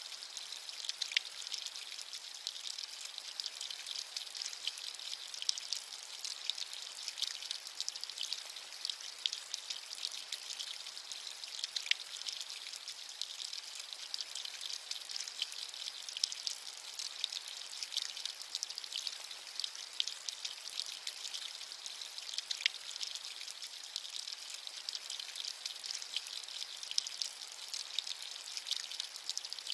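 Steady rainfall: an even hiss of many fine raindrops, with the odd louder drop standing out now and then.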